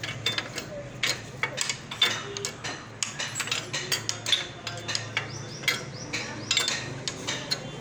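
Irregular metallic clinks and knocks of hand tools against metal parts as a Yamaha RX100 two-stroke engine is taken apart, over a steady low hum.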